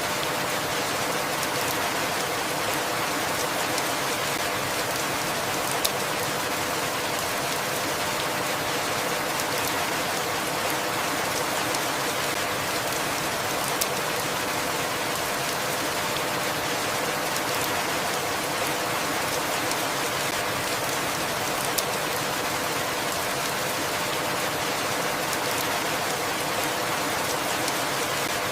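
Steady rain falling in an even, dense hiss. A single sharp drip or tap stands out about every eight seconds.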